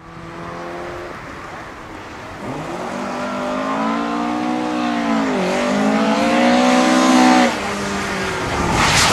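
Ford Escort Mk2 RS2000 rally car's two-litre four-cylinder engine revving hard under power. It starts quieter and steady, then gets louder with the pitch climbing. About halfway through the pitch dips sharply and climbs again, and it falls away near the end.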